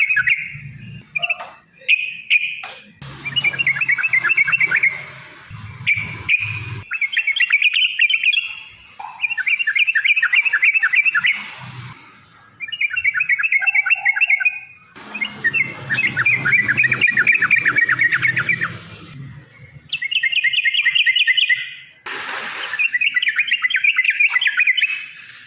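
Yellow-vented bulbul (trucukan) singing in long, fast, bubbling chattering runs ("ropel panjang"), phrase after phrase with short pauses between them.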